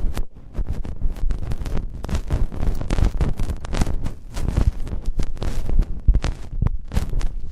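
Close-miked ASMR ear sounds made right against a microphone's ear: dense crackling and clicking over a low rumble of rubbing and handling.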